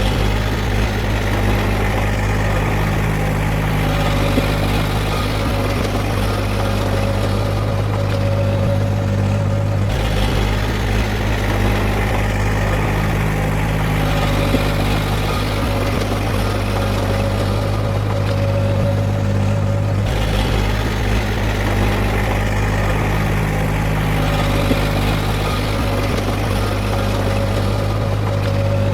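Heavy earthmoving machine's diesel engine running steadily, a low drone with a constant hum over it. The sound shifts slightly about every ten seconds.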